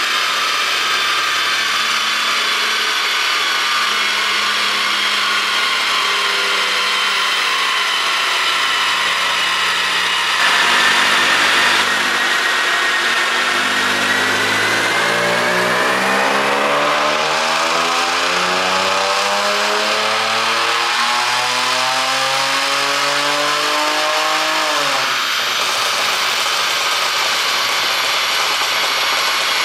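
Mercedes-Benz E300 petrol V6 running on a chassis dyno. It holds a steady speed for about ten seconds, then goes to full throttle and climbs steadily in pitch through a dyno pull of about a dozen seconds. Near the end the throttle is released and the revs drop suddenly, leaving a steady lower running note.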